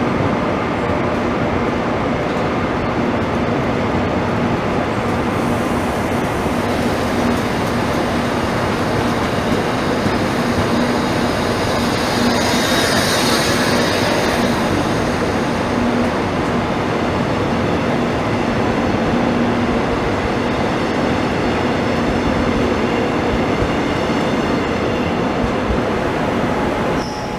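KORAIL passenger coaches rolling past along a platform: a steady rumble of wheels on rail with a low hum, and a brief rise of hiss about halfway through.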